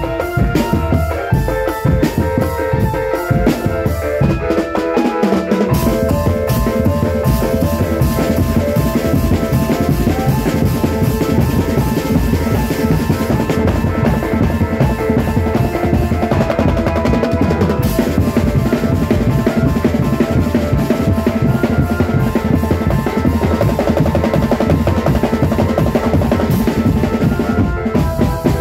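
Marching drum band playing loudly: bass and snare drums beating fast under a held melody line, with the low drums growing fuller about five seconds in.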